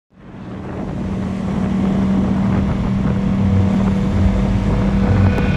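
Yamaha FZ-10's crossplane inline-four engine running at a steady speed on the road, with wind rushing over the microphone. The sound fades in over about the first second.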